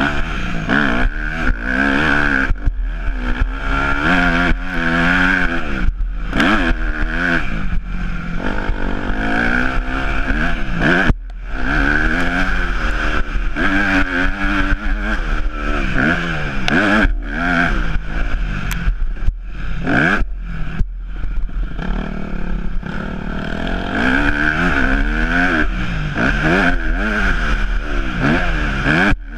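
Yamaha YZ250F's four-stroke single-cylinder engine revving up and falling back over and over as the bike is ridden, the throttle opening and closing. There is a brief drop about eleven seconds in.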